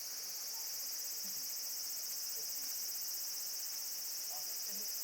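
Steady high-pitched chorus of insects such as crickets, continuous and finely pulsing, with faint short chirps scattered beneath it.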